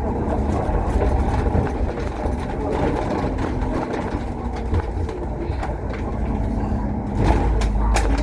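A bus's engine and road noise heard from inside the cabin, running steadily while under way. The low rumble grows stronger about seven seconds in, with a few knocks or rattles near the end.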